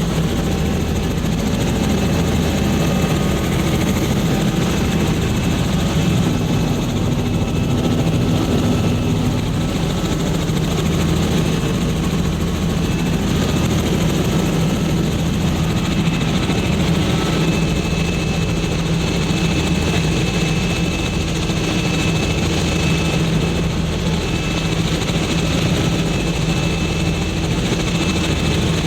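Helicopter running steadily, a constant, even drone of engine and rotor.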